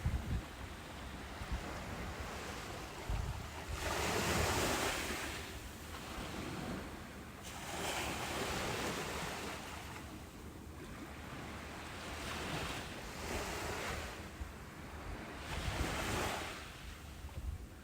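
Ocean surf breaking on a beach, the wash swelling and fading every three to four seconds, with the biggest wave about four seconds in. Low rumbles of wind buffet the microphone now and then.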